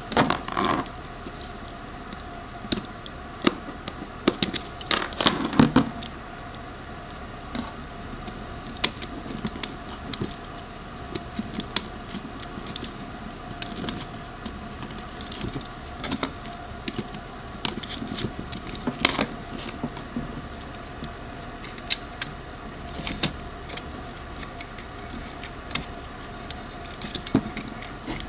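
Irregular clicks, taps and small rattles of small parts and tools being handled, busiest in the first few seconds, over a steady low hum.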